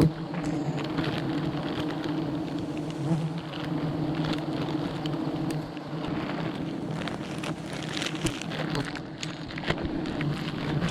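A swarm of wild honey bees buzzing in a steady hum, with scattered crackling and rustling clicks over it.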